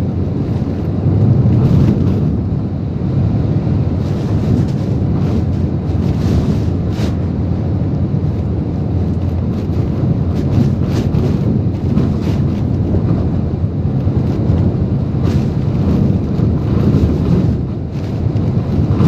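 Typhoon-strength wind and driving rain buffeting a truck, heard from inside the cab as a loud, steady rushing that surges in gusts.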